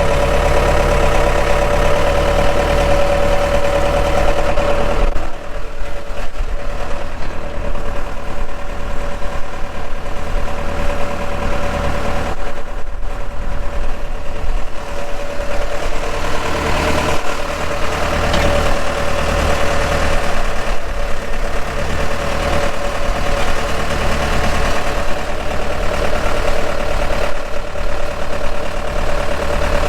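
An engine or motor running steadily at a constant speed, a continuous hum.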